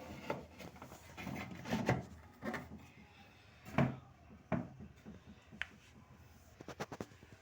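Refrigerator shelves and bins being fitted back into a fridge: a run of knocks, clicks and short scrapes of plastic and glass against the fridge's liner and runners, about a dozen over several seconds.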